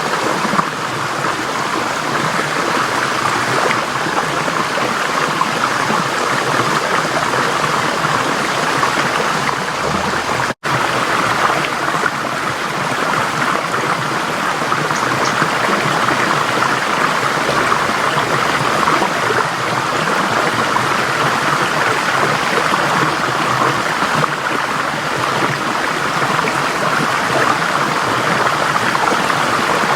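Forest stream flowing: a steady rush of water, cut off for an instant about ten and a half seconds in.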